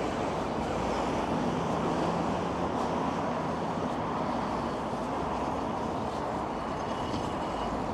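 Steady traffic noise from passing road vehicles, an even rushing sound, with a faint thin high tone creeping in near the end.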